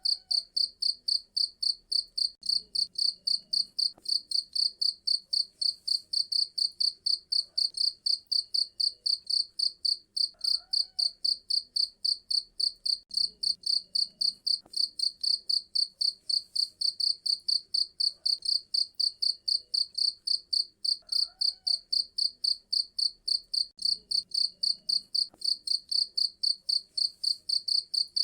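Cricket chirping steadily and high-pitched, in an even rhythm of about three chirps a second.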